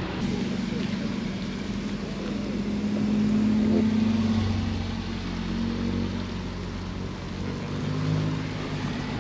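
A car engine running at low revs, with a low, steady note that grows louder about three seconds in and then eases off.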